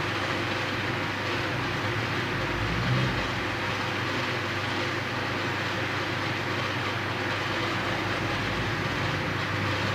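Steady rumbling background noise with a low hum, even throughout, with no distinct tool clicks or knocks standing out.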